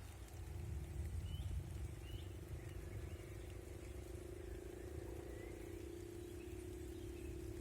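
Countryside ambience: scattered short bird chirps over a low rumble, with a steady hum at one pitch setting in just after the start and holding.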